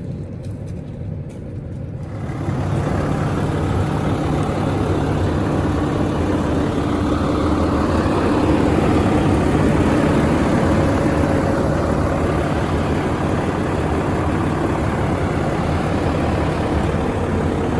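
Heavy truck's diesel engine running steadily, a low even hum that comes in suddenly about two seconds in and swells slightly around the middle.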